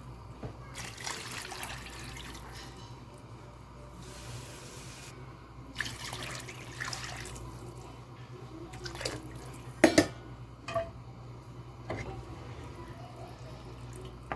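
Water running from a kitchen tap into a sink in several bursts of a second or two, over a steady low hum. A pair of sharp knocks about ten seconds in is the loudest moment.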